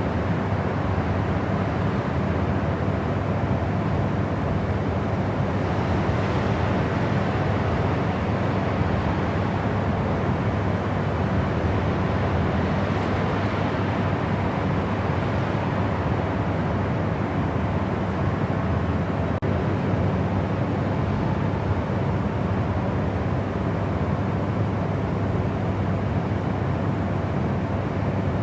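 Steady white-noise sleep track: an even, unbroken rushing hiss, heaviest in the low range, that does not change.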